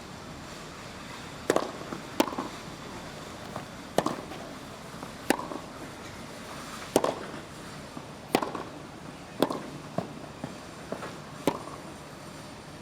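A tennis rally: a tennis ball struck back and forth by racket strings, about a dozen sharp hits coming every second or so from about a second and a half in, over a low steady crowd background.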